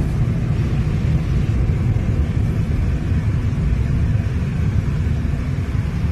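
Steady low road and tyre rumble inside the cabin of a moving Tesla Cybertruck, an electric truck with no engine note.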